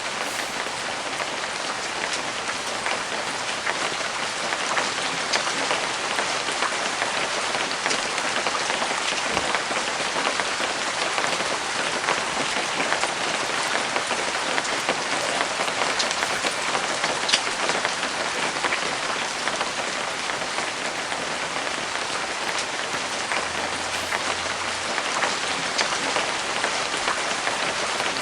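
Steady light rain falling, a dense even patter with many scattered individual drop ticks.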